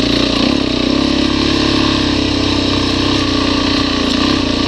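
Motorcycle engine running steadily, an even drone with no change in speed.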